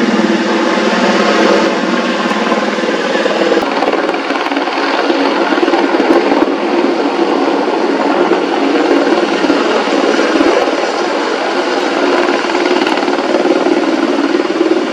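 AH-64E Apache attack helicopter flying, its rotor and turbine noise loud and steady throughout.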